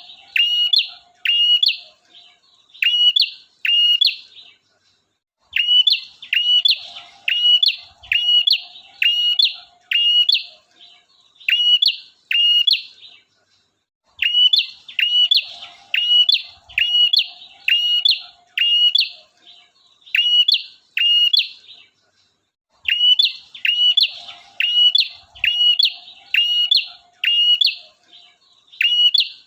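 Male prinia (prenjak) singing its loud, fast song: a sharp hooked note repeated about twice a second, in runs of several seconds broken by short pauses. It is the male's song played as a lure to draw in wild prinias.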